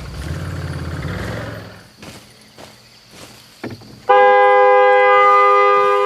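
A vehicle horn starts blaring suddenly about four seconds in and holds one loud, steady chord without a break. Before it, a low rumble fades out, followed by a few light clicks.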